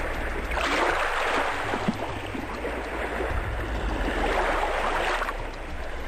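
Sea water washing in swells, over a steady low rumble.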